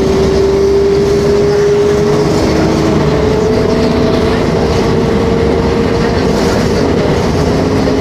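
Mercedes-Benz O500MA articulated bus heard from inside while under way: engine and drivetrain running steadily with a prominent whine that rises slowly in pitch as the bus picks up speed, then levels off, over a rumbling low end.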